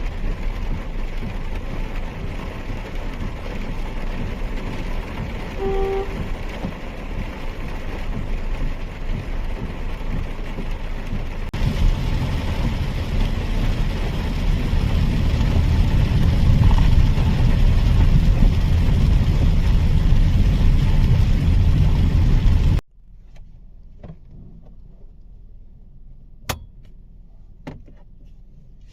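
Cabin noise of a Mahindra XUV 3XO being driven on wet roads in rain: a steady rushing of tyres and rain with a deep rumble beneath, stepping up louder about a third of the way in. A brief electronic tone sounds about six seconds in, and late on the noise cuts off suddenly to a quiet hum with a couple of sharp clicks.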